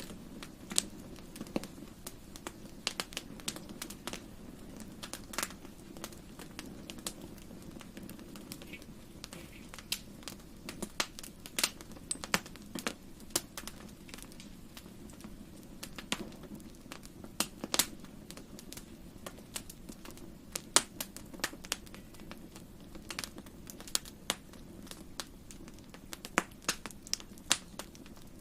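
Fireplace fire crackling, with irregular sharp pops and snaps, some bunched close together, over a steady low rumble.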